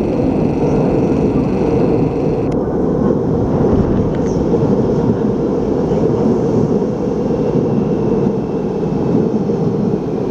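Seibu 40000 series electric train running into an underground station platform: a loud, steady rumble of wheels and running gear, echoing in the enclosed station.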